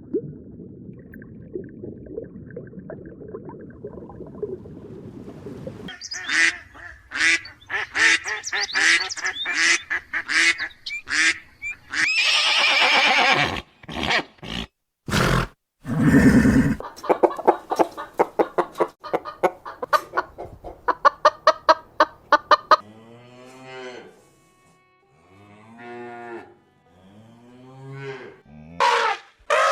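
A sequence of different farm animal calls. A low, even rumble gives way to runs of rapid, repeated pitched calls, then a few separate drawn-out calls that rise and fall in pitch near the end.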